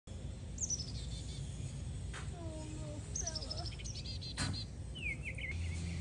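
Small songbirds chirping: several quick runs of high chirps, some stepping down in pitch, with a few lower gliding calls between them. Two short clicks stand out, about two seconds in and midway through.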